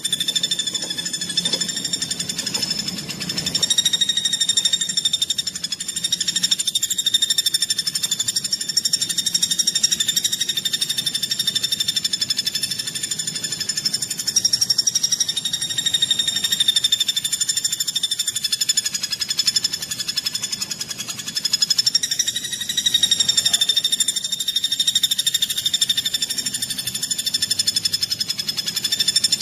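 Songbird singing a fast, tight, unbroken trill, high-pitched and wavering only slightly in pitch: the rapid song used as a training recording for cage birds.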